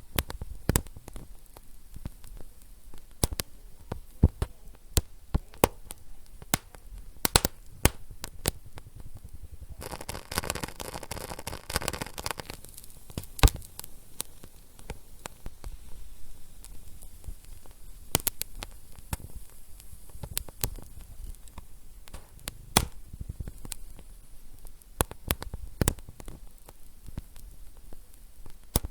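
Wood fire in a fireplace crackling, with irregular sharp pops over a low rumble. About ten seconds in there is a two-second stretch of steady hiss.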